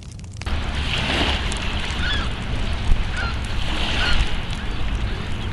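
Farm fowl calling, a series of short honking calls that begin about half a second in, over a steady low rumble.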